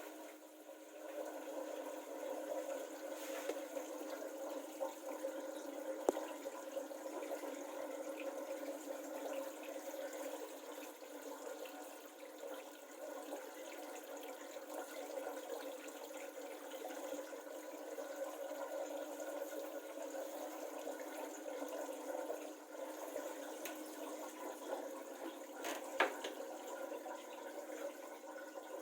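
Schaub Lorenz SLW MG6133 washing machine running on its spin program: a steady hum with water running through it, with no rise in pitch. A faint click sounds twice, once early and once near the end.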